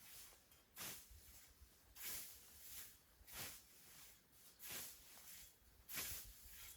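Hand scythe swishing through tall grass in a steady cutting rhythm: about five quiet swishes, roughly one every second and a quarter.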